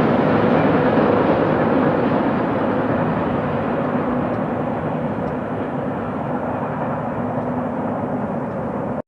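Double-stack intermodal train of container-loaded well cars rolling past: a steady rumble of wheels on rail with a faint hum. It grows gradually quieter, then cuts off suddenly near the end.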